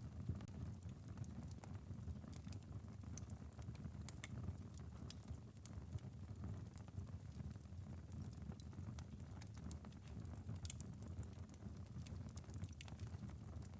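Wood fire crackling in a fireplace: a low steady rumble of flames with scattered sharp pops and snaps, a few of them louder, about four seconds in and near the end. Light rain patters on a window underneath.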